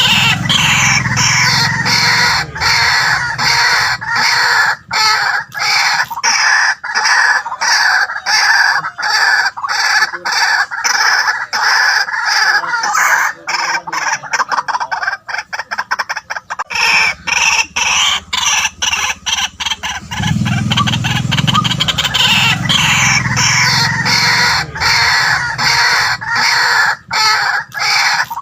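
White-breasted waterhen calling: a loud, long run of rapid, repeated croaking notes, turning choppier with quick separate notes around the middle before the full run picks up again.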